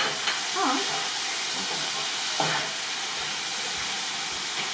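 Food sizzling steadily in oil on a hot tawa, with a few short knocks.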